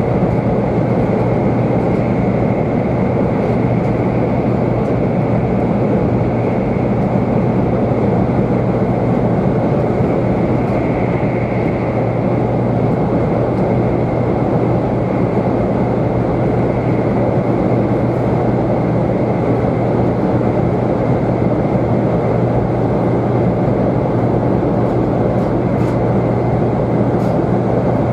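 Steady running noise of a 500 series Shinkansen at speed, heard inside the passenger cabin: a continuous rumble of wheels and air with a low hum and a faint high whine.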